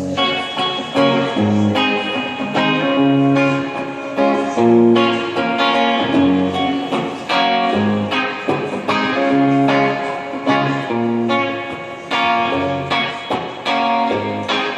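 Guitar playing a run of picked and strummed chords with no singing, an instrumental passage in a live cover band's set. It comes in suddenly after talking.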